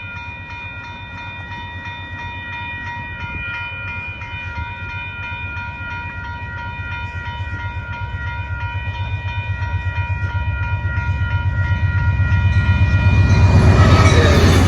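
Railroad crossing bell ringing steadily, about one and a half strikes a second, as an Amtrak passenger train approaches. The train's rumble builds throughout and is loudest near the end, when the train reaches the crossing.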